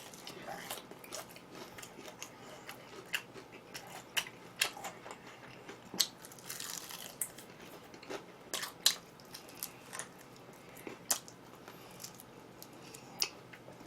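Close-miked eating: a person chewing and crunching food, with scattered sharp clicks and crackles.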